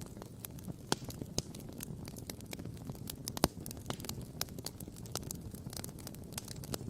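Wood campfire crackling and popping in quick, irregular snaps, with one sharp pop about halfway through, over a steady low rumble.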